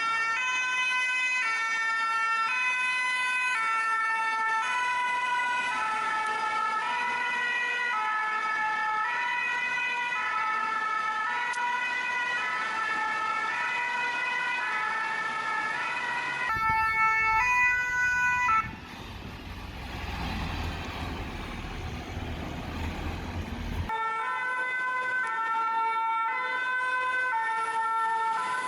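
Two-tone sirens of Paris Fire Brigade engines, alternating steadily between a high and a low note. Near the middle the siren briefly stops and a low rumble takes over for about five seconds, then the two-tone siren returns.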